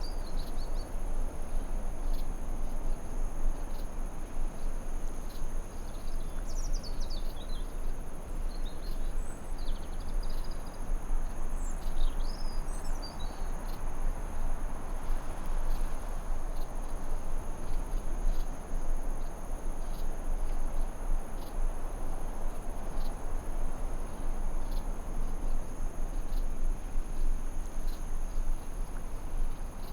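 Forest ambience: a steady hiss of noise under a continuous high insect drone, with birds chirping and trilling in short bursts during the first half.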